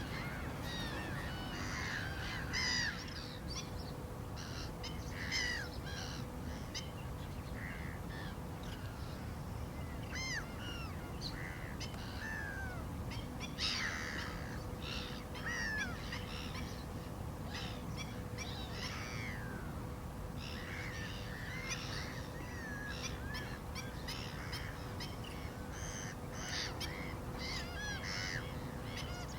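Black-winged stilts calling: many short calls in quick runs, with brief gaps between the runs.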